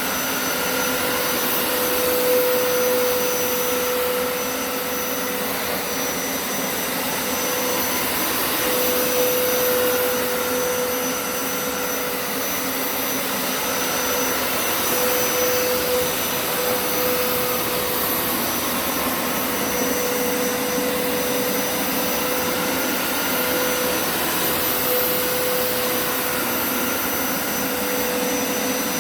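Hoover Turbo Scrub upright carpet cleaner running steadily, its suction motor giving a continuous whine over a steady rush of air that wavers a little in pitch.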